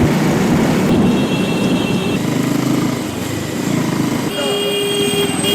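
Riding on a motorcycle through city traffic: steady engine, road and wind noise, with vehicle horns honking, one about a second in and a longer held one near the end.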